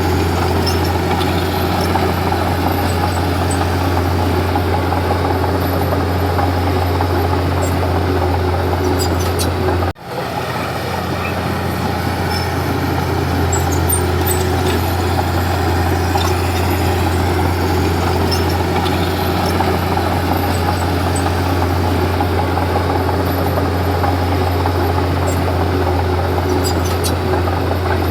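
Komatsu D31P bulldozer's diesel engine running steadily under work, a deep even drone. About ten seconds in the sound drops out for an instant, then swells back to the same drone.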